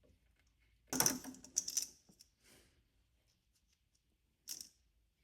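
A few short clicks and rattles of small machine parts being handled by hand during disassembly. The loudest clatter comes about a second in, another follows shortly after, and a brief one comes near the end.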